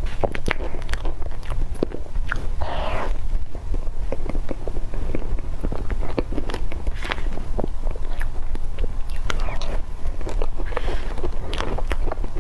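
Close-miked wet mouth sounds of a person chewing soft cream cake: a dense run of small sticky clicks and smacks, with a steady low rumble underneath.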